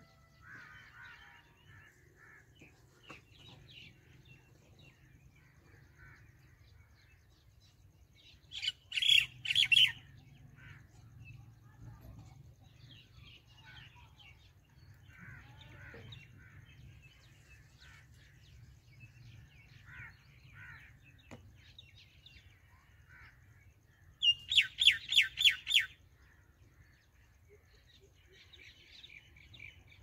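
Wild birds chirping, with two loud bursts of rapid, evenly repeated call notes, each about a second and a half long.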